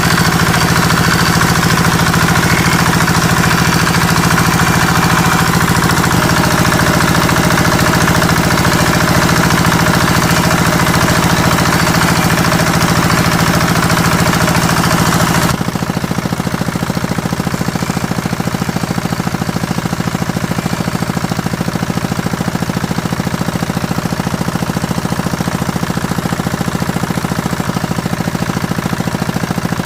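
A machine's motor running steadily with a constant hum. About halfway through the sound changes abruptly: the higher, harsher part drops away and the motor carries on a little quieter.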